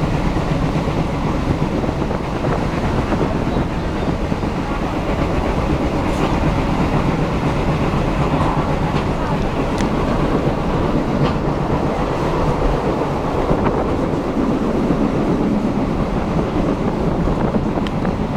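Passenger train running on the rails: a steady rumble of the coaches with a few faint clicks scattered through it.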